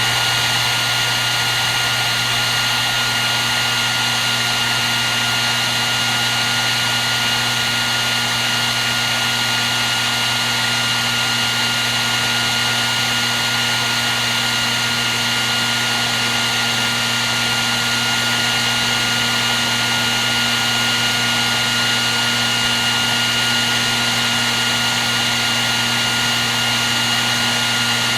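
Hair dryer running continuously at a steady speed: a constant rushing hiss of air with a low motor hum and a thin high whine that never changes.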